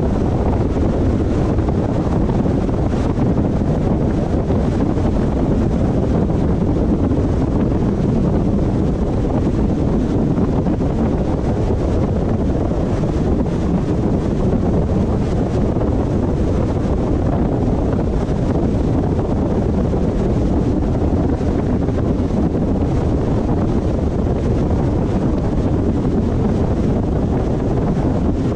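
Steady road and wind noise of a car driving at a constant speed, with no changes in pitch or level.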